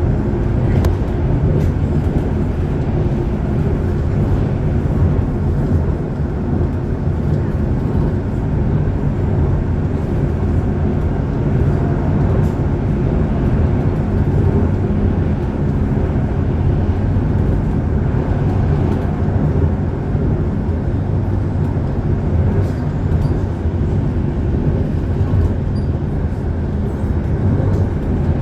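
Passenger train running along the line, a loud steady low rumble.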